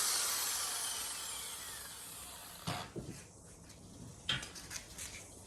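Angle grinder with a fibre disc spinning down after being switched off, its whine falling in pitch and fading over about two seconds. A few light knocks follow, the loudest about four seconds in.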